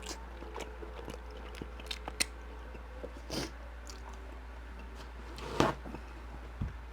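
Close-miked mouth sounds of a person chewing food: soft, scattered smacks and clicks, with a few louder wet bursts a few seconds apart.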